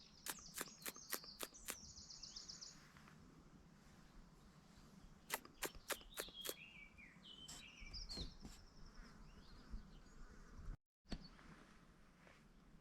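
Faint wild birdsong: a rapid high trill with a run of sharp clicking notes, another short burst of clicks, then a descending phrase of whistled notes.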